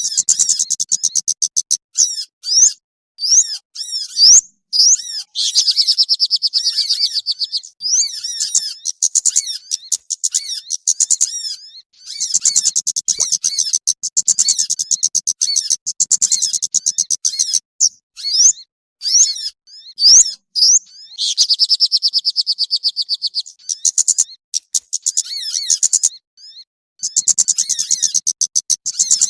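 Small songbirds' calls played as a bird lure: rapid, high-pitched chirps and trills in repeated bursts, broken by short gaps.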